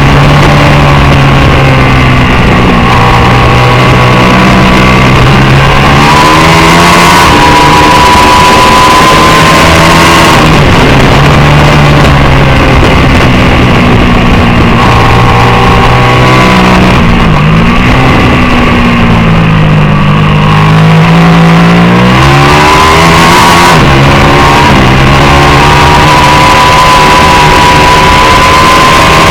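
750 superbike racing motorcycle engine at high revs, its pitch climbing and dropping back again and again as it works through the gears. A deeper fall in pitch and a slow climb come a little past halfway. A dense steady rushing noise runs underneath.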